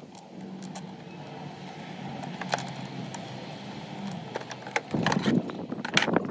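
A steady low hum for about four seconds, then a run of sharp metallic clicks and clinks near the end, like tools and small metal parts knocking together.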